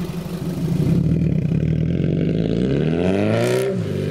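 Toyota MR2's 1ZZ inline-four engine through a homemade stainless-steel exhaust, running steadily and then revving up. Its pitch climbs for about a second and a half, then drops sharply about three and a half seconds in.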